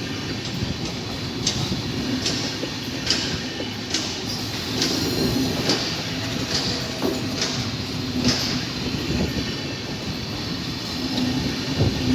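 Train rolling slowly through the station: a steady low rumble of wheels on rails, with short high squeaks from the wheels about once a second, fading out in the last few seconds.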